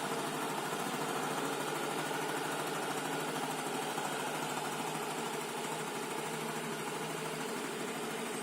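Yamaha Mio Soul GT scooter's single-cylinder four-stroke engine idling steadily.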